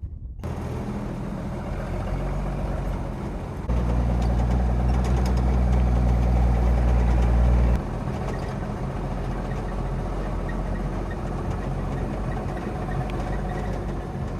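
A vehicle engine running steadily, growing louder for about four seconds starting around four seconds in, then settling back.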